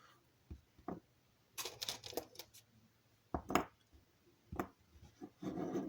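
Small hard parts of a rolling road clinking and knocking as they are handled and set down, in a few irregular clicks and short rattles, the loudest about three and a half seconds in.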